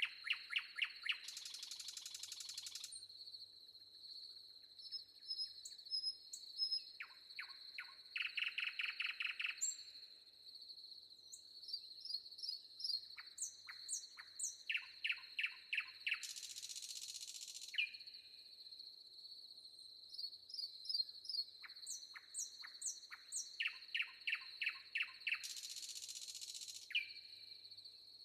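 Forest birdsong: songbirds repeating fast trills of short, clipped notes with higher chirps between them, over a steady high-pitched insect drone. A harsh rasp lasting about a second and a half sounds three times, about nine seconds apart.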